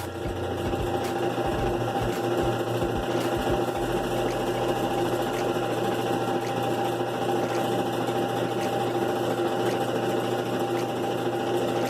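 A small electric motor running steadily with an even hum.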